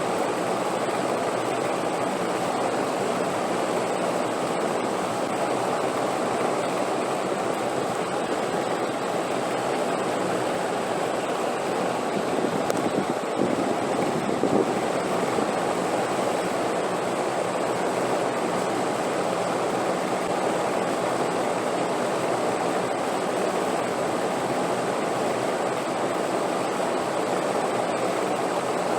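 Steady wind noise, an even low hiss with no breaks, swelling briefly a little louder about halfway through.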